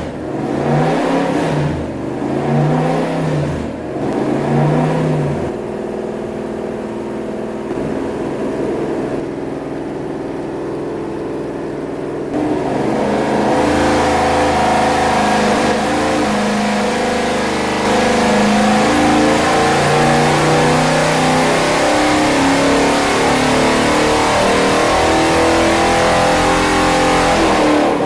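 Pontiac 421 V8 running on an engine dynamometer. It gives a few quick blips of the throttle, then runs steadier. About twelve seconds in, it goes into a loud dyno pull under load, its pitch climbing slowly for some fifteen seconds before it cuts off at the end.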